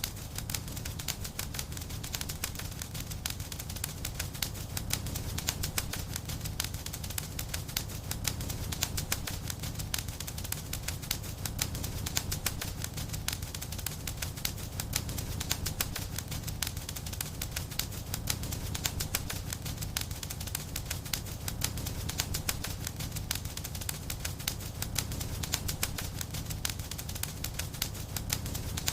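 Fireplace fire crackling with dense, irregular pops and snaps over a steady low rumble of the flames.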